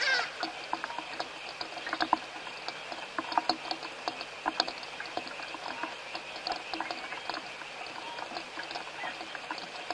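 Steady rain with a constant hiss and many scattered drips and patters. A brief call falling sharply in pitch is heard at the very start.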